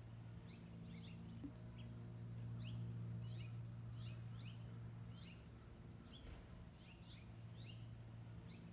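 Small birds chirping in quick, short high notes, several a second, over a steady low hum.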